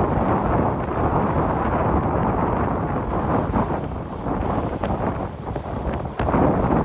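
Strong wind buffeting the microphone: a loud, gusting rumble that swells and dips throughout.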